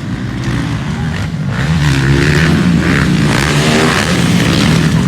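Motocross dirt bike engines revving hard on the track, their pitch rising and falling with the throttle and growing louder from about two seconds in.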